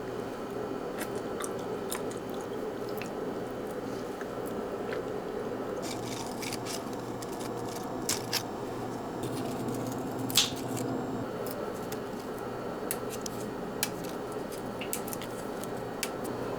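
Soft squishy handling sounds and scattered light clicks and taps over a steady low hum, with a sharper click about ten seconds in.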